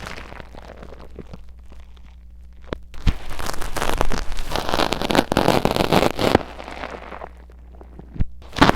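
Tweezers scratching and crackling against a mini microphone in simulated ear cleaning. A few faint clicks come first, then dense scratchy crackling from about three seconds in, easing off after about seven seconds, with a sharp click near the end.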